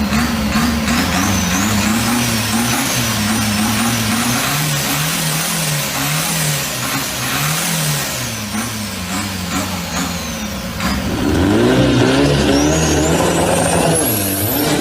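Speedboat engine running, its pitch rising and falling over and over. About eleven seconds in it revs up louder, with a high whine climbing near the end.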